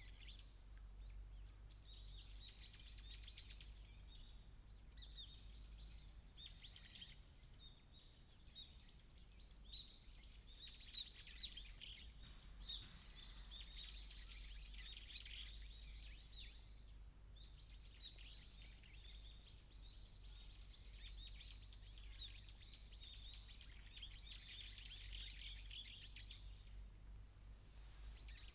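Small songbirds chirping and singing in overlapping bursts of quick, high notes, with short pauses between flurries. A faint, steady low hum runs underneath.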